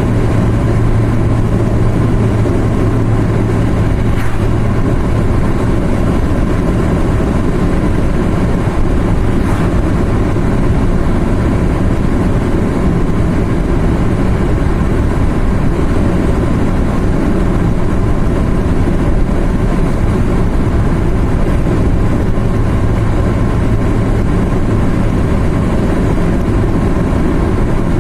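Car driving on a mountain road: steady engine drone and road noise. A low engine hum is strong at first, fades from about a quarter of the way in, and returns near the end.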